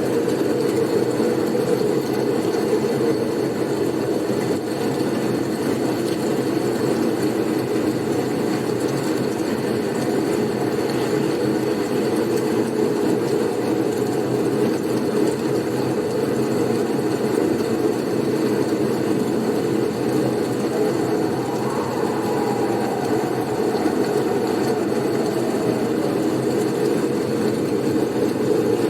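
Blizzard wind noise: a steady, even low rush with no gusts or breaks.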